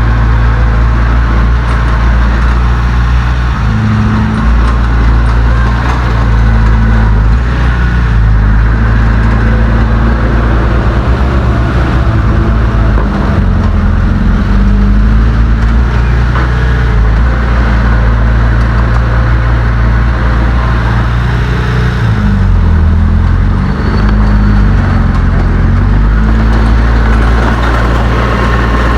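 Heavy diesel engine of earthmoving machinery running loud and steady, its pitch shifting with changing load several times, most clearly about four seconds in and again in the last third.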